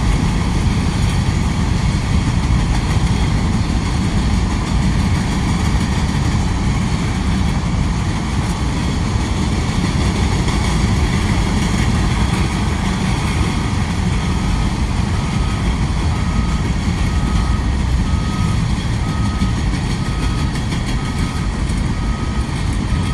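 Freight train passing close by, with a steady loud rumble and rolling noise. About two-thirds of the way in, a steady electronic beep starts, repeating about once a second.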